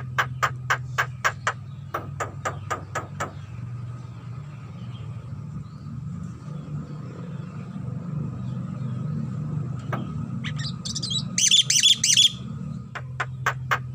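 Javan myna calling: runs of rapid sharp clicks, about five a second, and a loud burst of harsh chattering calls about eleven seconds in. A steady low hum runs underneath.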